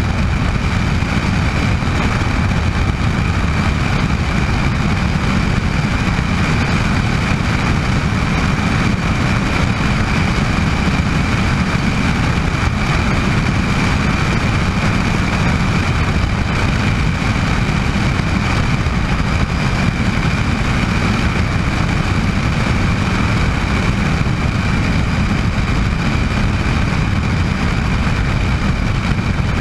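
Bell 206 JetRanger helicopter in flight: its Allison 250 turboshaft engine and rotors running steadily, a continuous low rumble with a constant high-pitched turbine whine over it.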